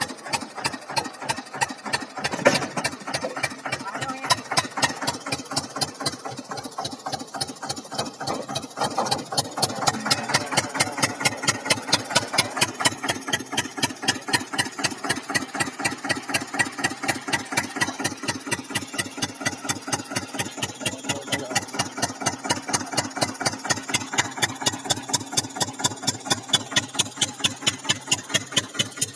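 Eicher 242 tractor's diesel engine running with a steady, evenly pulsing beat, rising in level about ten seconds in. A sharp loud knock sounds about two and a half seconds in.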